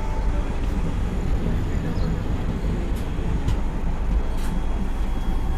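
Steady low rumble of a moving passenger train heard from on board, with a few faint clicks.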